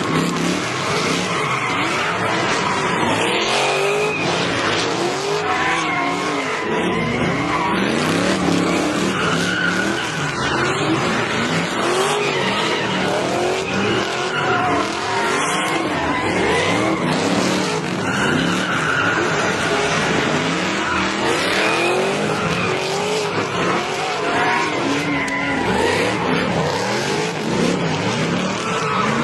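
Muscle-car engines revving hard during burnouts, their pitch sweeping up and down again and again, over the steady hiss and squeal of spinning tyres.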